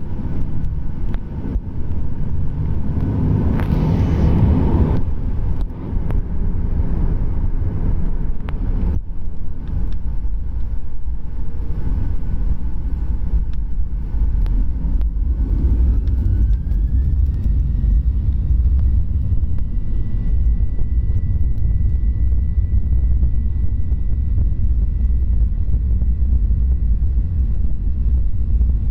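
Jet airliner heard from inside the cabin: a steady low rumble, with the engine whine rising in pitch about halfway through and then holding at a steady high note as the engines spool up to power.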